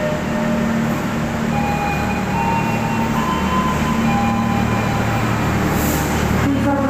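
Passenger train running on the tracks: a steady rumble and low hum, with short high squeals here and there.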